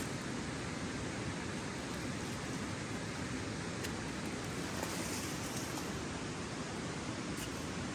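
Steady rush of river water, an even wash of noise with a couple of faint ticks over it.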